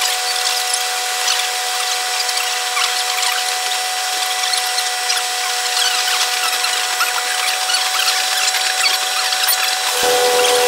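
Sound of a train running, sped up six times, so the railcar's engine and running noise become a steady high whine like a drill over a fast crackle of wheel and rail clicks. The sound changes abruptly about ten seconds in, with a lower hum joining.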